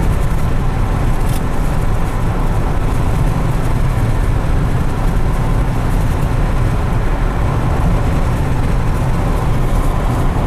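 Steady road and engine noise of a moving car, heard from inside the cabin: an unchanging low rumble with tyre and wind hiss.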